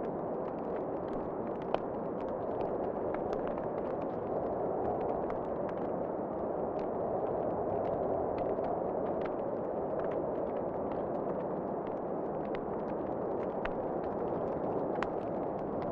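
Wood fire crackling in a fireplace, with frequent small snaps and one sharper pop just under two seconds in, over a steady rush of wind.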